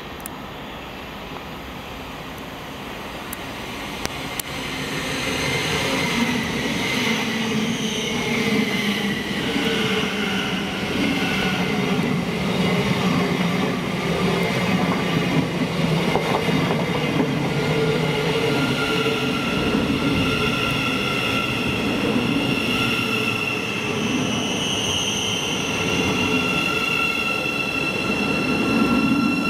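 A train approaching and running past, growing louder over the first few seconds, then a sustained rumble with steady high-pitched whining tones above it.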